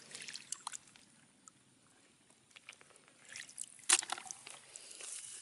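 Water dripping and trickling in short splashes with a few small clicks, nearly silent for a second or so in the middle and loudest about four seconds in.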